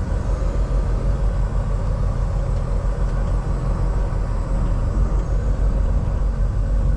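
A semi truck's engine running, a steady low rumble.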